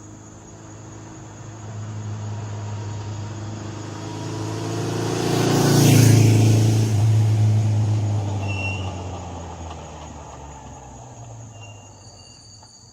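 A motor vehicle driving past: its engine grows louder to a peak about halfway through, drops in pitch as it passes, then fades away.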